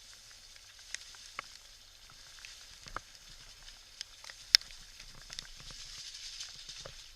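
Steady hiss of heavy rain, with scattered sharp clicks of drops or grit striking close by; one click about halfway through is the loudest.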